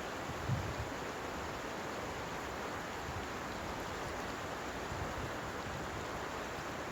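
Steady, even rushing noise with a brief low thump about half a second in.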